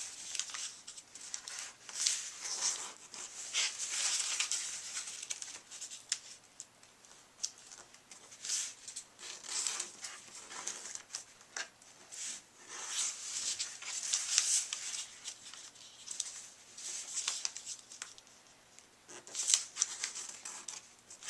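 A square sheet of origami paper being folded and creased by hand: repeated bursts of crinkling and rustling, with quieter gaps between.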